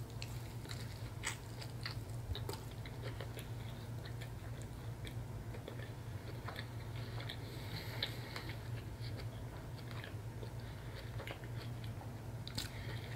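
A person biting into and chewing a mouthful of cajun catfish sandwich on cauliflower bread thins: small mouth clicks scattered throughout, over a steady low hum.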